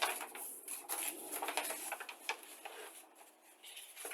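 Paper crinkling and rustling in irregular short crackles as a fold-out instruction sheet is handled and unfolded, busier in the first couple of seconds and sparser after.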